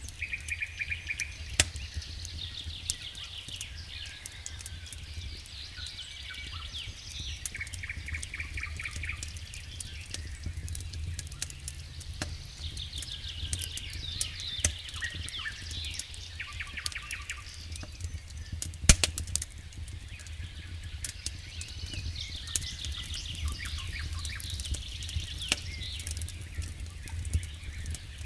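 Songbirds singing repeated trilled phrases over the scattered crackling and popping of a wood campfire, with one loud pop about two-thirds of the way through. A steady low rumble runs underneath.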